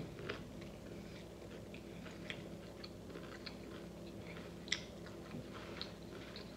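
Quiet chewing of a mouthful of chili cheese hot dog close to the microphone: soft scattered wet smacks and clicks, with one sharper click partway through.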